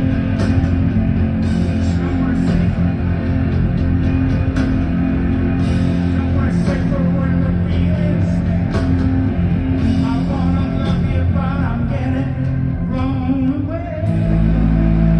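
Live rock band playing loud, with electric guitar and singing. Near the end the lead guitar plays wavering, bending notes, then a heavy low chord rings on.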